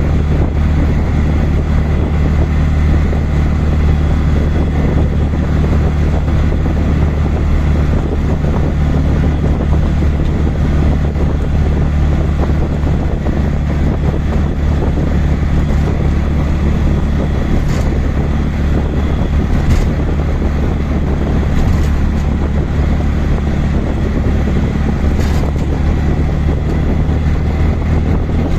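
Auto-rickshaw engine running steadily under way, a low drone mixed with road and wind noise. A few faint ticks come in the second half.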